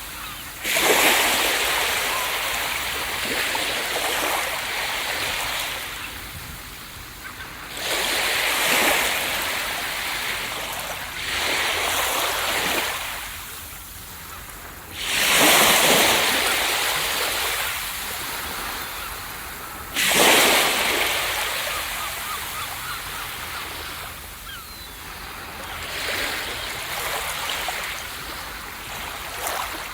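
Ocean waves breaking on a beach, each surging in with a sudden rush of hiss and washing away. Five or six breakers come several seconds apart, and those about a quarter and halfway through are the loudest.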